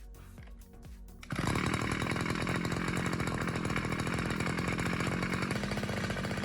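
Small two-stroke engine of a portable water pump bursting into a loud, fast, buzzing run about a second in and running steadily at high speed.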